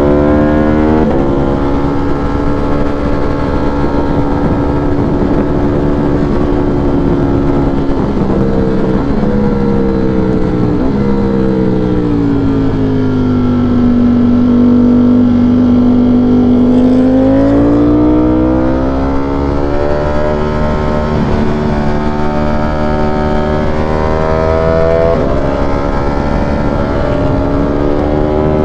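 V4 sport-naked motorcycle engine running under way, with steps in pitch at the gear changes. The revs fall away around the middle, hold steady for a few seconds, then climb again with upshifts, over a steady rush of wind and road noise.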